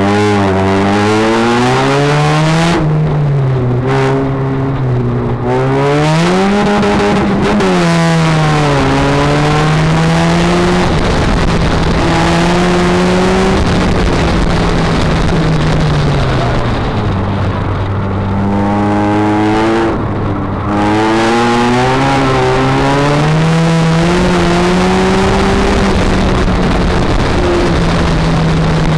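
2000 Toyota Corolla's 1ZZ 1.8-litre four-cylinder engine working hard through an autocross course, its revs climbing and falling again and again as the driver accelerates and lifts between corners. The revs drop lower twice, a few seconds in and again past the middle.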